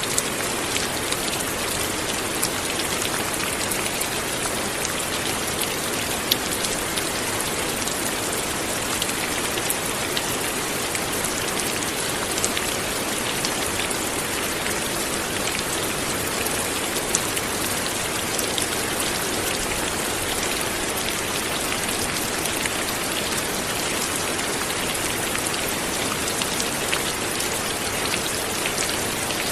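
Steady light rain falling, an even hiss with many small separate drops pattering.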